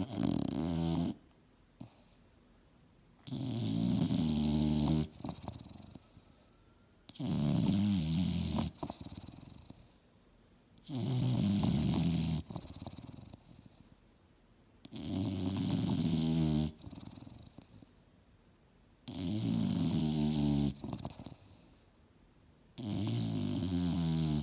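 English Bulldog snoring in deep sleep: seven long, buzzing snores at a steady rhythm of about one every four seconds, with quiet breaths between.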